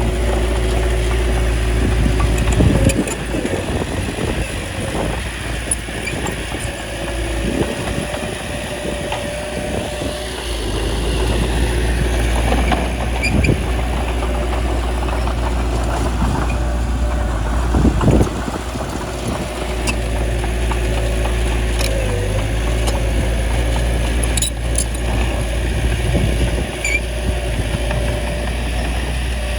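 Small crawler bulldozer's diesel engine running under changing load, with occasional sharp clanks.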